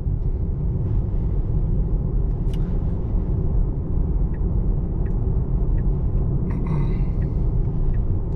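Steady low road and tyre rumble from a 2024 Tesla Model 3 driving on wet pavement, with a few faint ticks.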